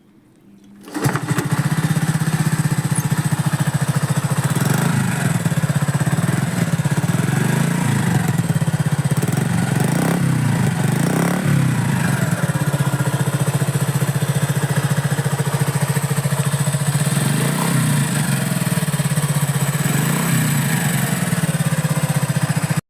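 Honda Super Cub 50's small single-cylinder four-stroke engine, fitted with a replacement aftermarket muffler, starting up about a second in and idling steadily, blipped up in revs several times.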